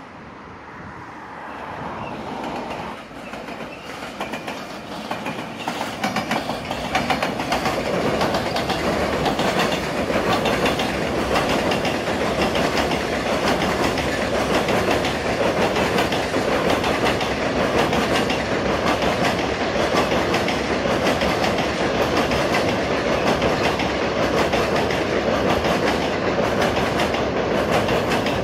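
A train running over a long railway bridge across a river: the rumble builds over the first several seconds into a steady, loud clatter of wheels on the rails.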